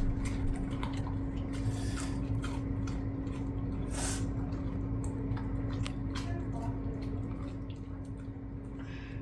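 A dog chewing and licking a saltine cracker: irregular wet clicks and smacks.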